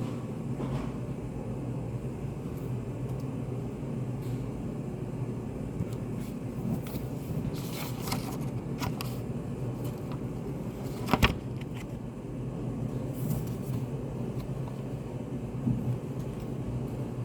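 Study café room tone: a steady low hum and hiss, with a few faint rustles and one sharp click about eleven seconds in.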